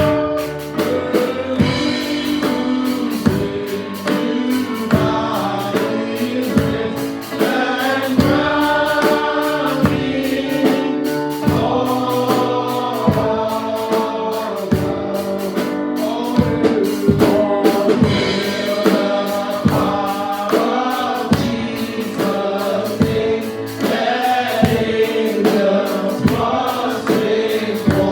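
Gospel praise-and-worship song: a group of voices singing together over a band with a steady drum beat.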